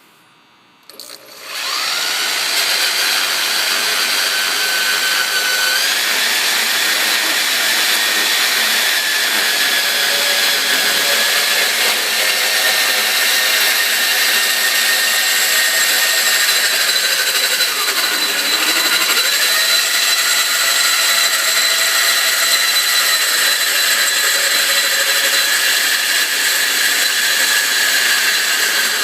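Milwaukee portable band saw cutting through 2.5-inch pipe. It starts about a second and a half in and runs steadily, its pitch dipping briefly about two-thirds of the way through.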